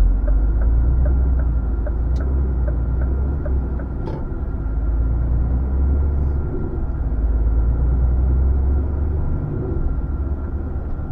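An HGV's diesel engine running under way, heard inside the cab as a steady low rumble. Over it an evenly spaced ticking, about three ticks a second, that stops about four seconds in, like the turn indicator's relay.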